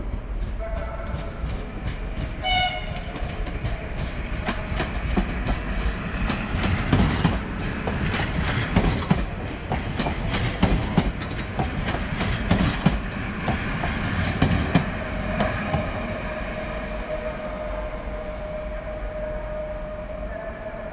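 Electric multiple unit passing at a station: a short horn toot about two and a half seconds in, then a rapid run of wheel clacks over the track as it goes by close, easing into a steady tone as it runs on.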